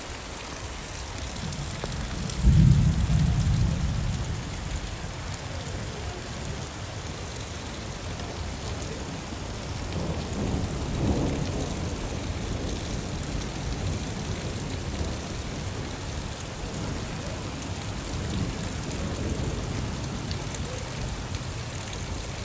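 Steady rain falling, with a sudden loud clap of thunder about two and a half seconds in that rumbles away over a second or two, and a softer roll of thunder near the middle.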